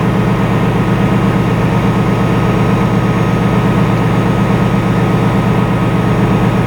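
Railway locomotive running steadily at a standstill, a loud, even low drone with a faint steady whine above it.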